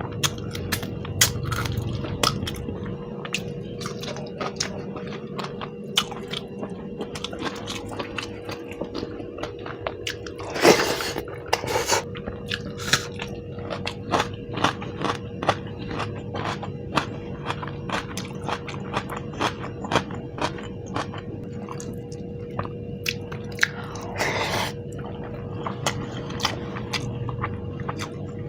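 Close-miked eating: steady chewing and biting with many wet mouth clicks, with louder, fuller bites about 11 seconds and 24 seconds in. A faint steady hum runs underneath.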